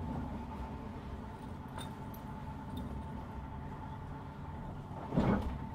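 Passenger train running, heard from inside the carriage: a steady low rumble with a faint steady high tone. A short, louder noise comes about five seconds in.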